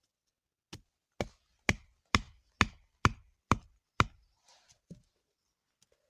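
A series of eight sharp knocks, about two a second, the first one softer than the rest, followed by a few lighter taps near the end.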